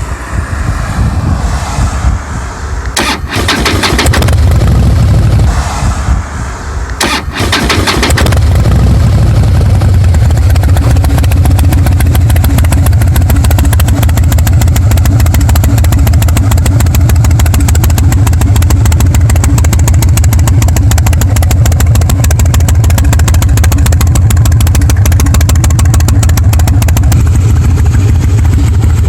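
Harley-Davidson Breakout's V-twin engine through a Bassani Pro Street turnout exhaust, starting up and running unevenly with two sharp surges, then settling about 8 seconds in into a steady, loud, deep idle with the firing pulses plain.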